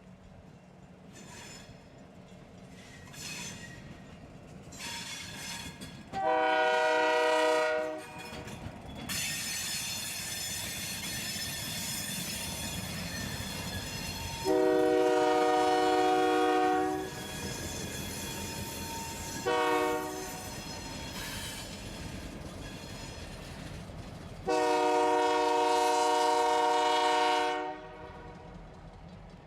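A freight locomotive's multi-chime air horn sounding the long, long, short, long grade-crossing signal, after a few fainter notes at the start. Underneath, the rumble and wheel hiss of the train rolling past.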